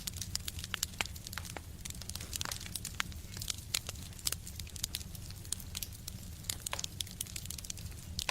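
Wood fire burning in a stove, crackling with many irregular sharp pops and snaps over a steady low rumble.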